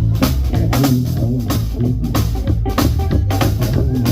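A live blues-boogie band playing: drum kit keeping a steady beat, with electric guitar and bass.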